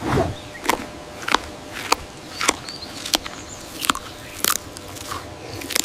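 Giant panda among bamboo: sharp, crisp crunching cracks at a fairly steady pace, about two-thirds of a second apart, over a low rustle, like bamboo stalks breaking.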